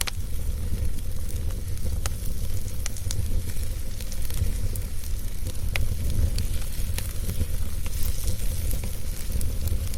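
Wood fire burning steadily with a low roar and a hiss, scattered sharp crackles and pops from the burning wood.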